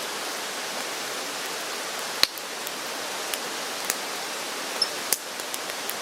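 Steady hiss of rain with a few sharp drip strikes landing close by.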